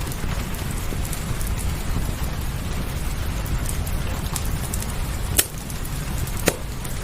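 Steady rain with a low rumble beneath it, and a fireplace crackling over it in scattered sharp pops, two louder pops a second apart near the end.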